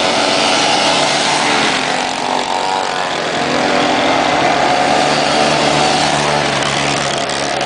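Motorcycle engine running, its pitch dropping about two seconds in and then rising again as it revs.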